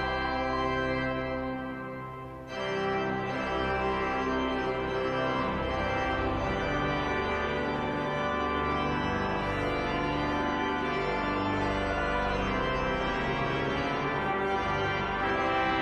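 Organ music: full, sustained chords that fade briefly about two seconds in, then start again abruptly and play on steadily.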